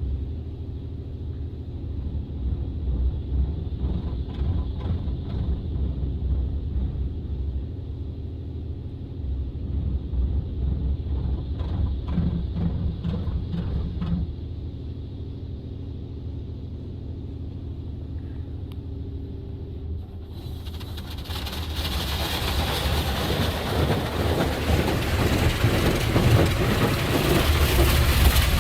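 Low steady rumble, then about two-thirds of the way in a sudden loud hiss of high-pressure water spray from a Coleman Hanna Water Wizard 2.0 car wash's rotating zero-degree nozzles begins and keeps on.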